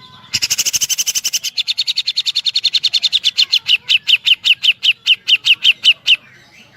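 Cucak jenggot (grey-cheeked bulbul) singing a woodpecker-like 'tembakan' rattle: a long run of sharp down-slurred notes, very fast at first, slowing to about five a second and stopping abruptly about six seconds in.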